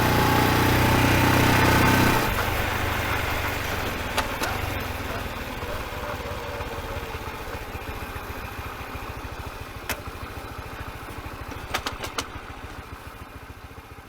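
Honda Super Cub's air-cooled four-stroke single-cylinder engine running. It is revved for about two seconds, then drops suddenly back to a steady idle that slowly fades. The idle has no rhythmic clicking, which the owner takes as the repair working: the piston may have been hitting something. A few isolated sharp ticks come through in the second half.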